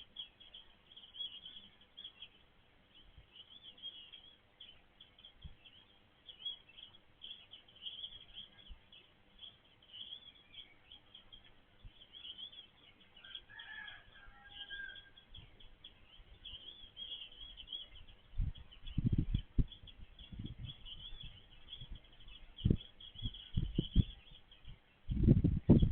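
Birds chirping: a steady run of short, high calls, with one lower, louder call about halfway through. In the last seven seconds, low thumps and rumbles come in.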